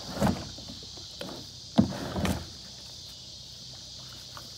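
Kayak paddle and hull knocks and splashes, three sudden strokes with the sharpest a little under two seconds in, over a steady high chirring of insects.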